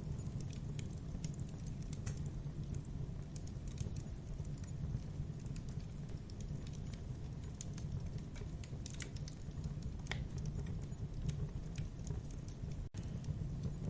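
Campfire crackling: irregular sharp crackles and pops over a steady low rumble of burning wood, with a split-second dropout near the end.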